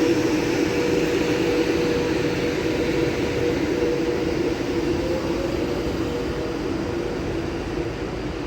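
A train running at the station: a steady mechanical drone carrying two steady tones, easing slightly toward the end.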